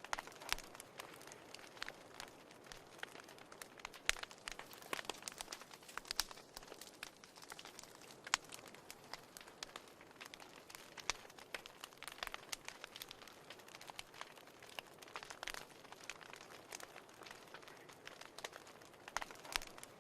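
Wood fire burning in a fireplace, crackling with a steady stream of irregular snaps and pops over a soft hiss.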